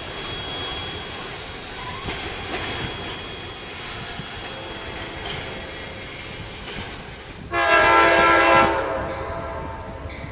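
Freight train rolling past with rail noise and thin high wheel squeal, then a locomotive air horn sounds one short blast of a few notes together, about a second long, near the end.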